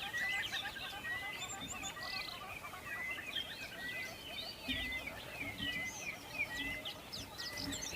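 Several birds chirping and calling at once, with one short whistled note repeated about twice a second.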